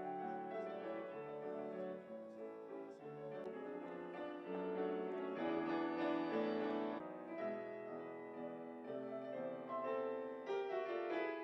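Quiet classical music with piano, sustained notes changing every second or so.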